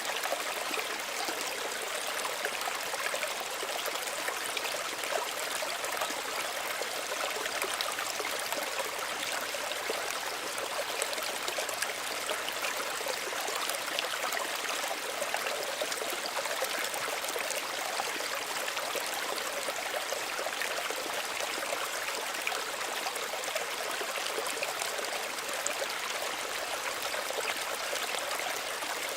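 Small stream of running water, a steady gentle trickle and babble with many fine splashes, unchanging throughout.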